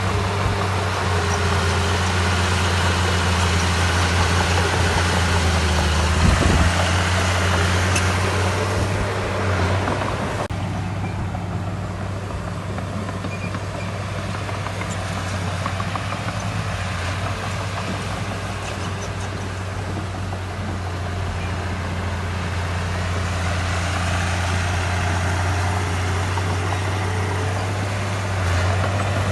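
Diesel engine of heavy construction machinery running steadily with a low, even hum. The hissing, higher-pitched noise over it drops away about ten seconds in.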